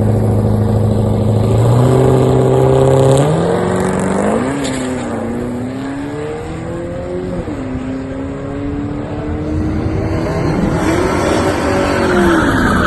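Drag-racing cars' V8 engines holding revs at the line, then launching about two seconds in and accelerating hard down the strip, the pitch climbing and dropping back at each gear change as they pull away. Near the end an engine note swells up and falls away again.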